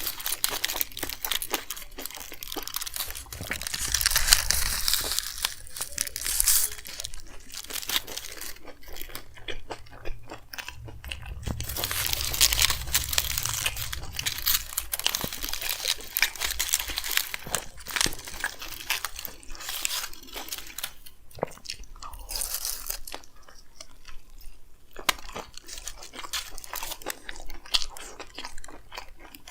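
Close-miked chewing and biting of a chicken frankie roll: soft crunching and wet mouth clicks, with heavier stretches of biting about four seconds in and again about twelve seconds in.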